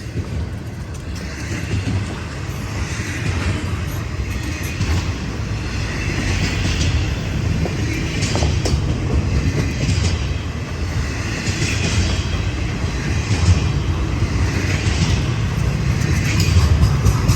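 A BNSF intermodal freight train's container cars rolling past. A steady low rumble of wheels on rail, with a higher rail noise that rises and falls about every second and a half, growing slightly louder toward the end.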